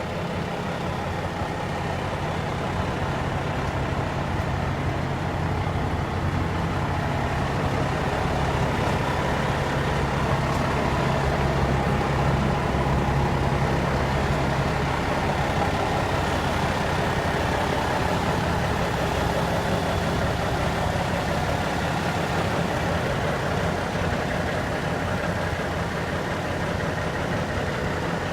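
1984 International S 2200 truck's Cummins 400 diesel, an inline-six, running steadily. It grows a little louder for a while in the middle, then eases back.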